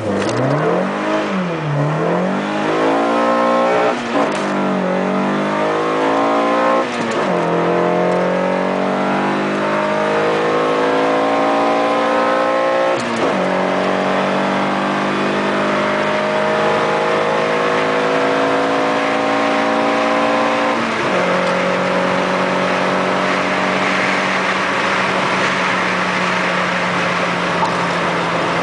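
Opel Kadett GSi's C20XE 2.0-litre 16-valve four-cylinder, fitted with Lexmaul ram intakes and EDS Phase 1 tuning, accelerating flat out through the gears. The revs rise and fall unevenly over the first few seconds at the launch. After that the engine note climbs steadily and drops at each of four upshifts, with each gear lasting longer than the one before.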